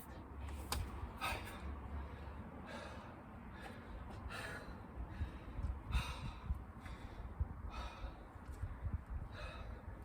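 A man breathing hard from exertion, with sharp, irregular breaths about every half second to a second and a half, over a steady low rumble.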